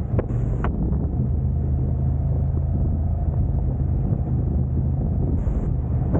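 Car driving in traffic: a steady low engine and road rumble with an even hum. Brief high-pitched ticks come shortly after the start and again about five seconds in.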